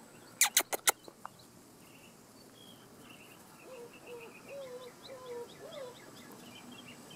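A quick run of four sharp clicks about half a second in, then faint background chirps and short wavering calls from birds.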